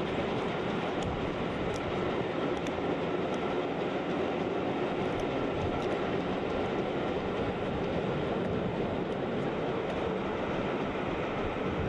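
Passenger train running along the track, heard from an open carriage window: a steady rumble and rush of wheels on rails that carries on without a break.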